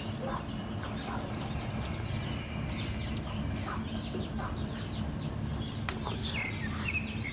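Small birds chirping again and again in short arched calls, over a steady low hum.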